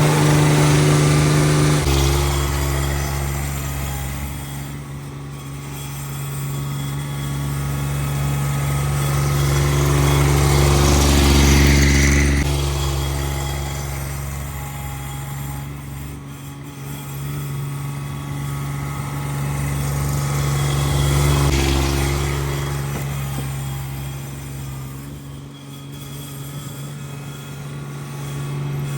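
Cub Cadet 1782 garden tractor's twin-cylinder engine running steadily under load. The sound swells and eases several times, loudest near the start, about twelve seconds in and about twenty-one seconds in.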